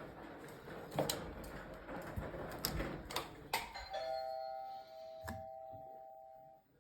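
Scattered clicks and clatter of things being handled, then about four seconds in an electronic chime sounds: two steady tones together that ring for about two and a half seconds and fade out.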